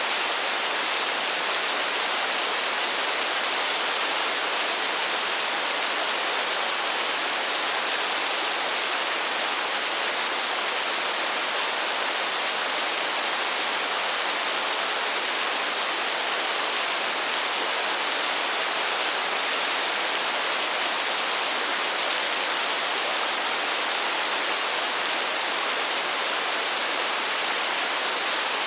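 Steady, even hiss of heavy rain falling, with no single drops standing out and little low rumble.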